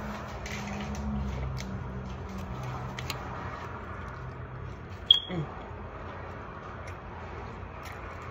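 Wet chewing and lip smacking of a mouthful of BLT sandwich, a run of small clicks, with a low hummed voice in the first two seconds. A single sharp click about five seconds in is the loudest sound.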